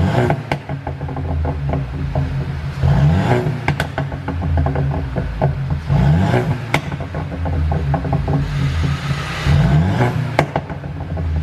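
Mercedes-Benz C200's turbocharged four-cylinder engine, idling and then revved in four short blips, each followed by sharp pops and crackles from the exhaust as the revs fall: the sound of a tune that makes the exhaust pop on the overrun.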